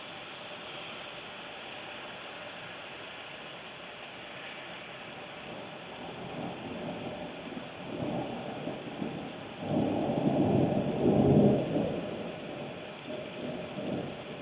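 Steady rain hiss, then a long roll of thunder that builds about six seconds in, is loudest a few seconds later, and dies away in smaller rumbles near the end.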